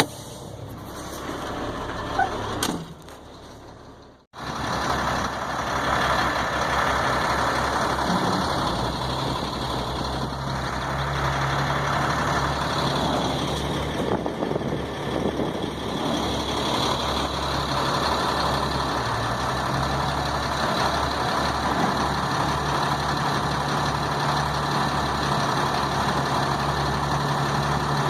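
Heavy diesel engine running steadily, swelling once in the middle, after a quieter stretch that cuts out about four seconds in.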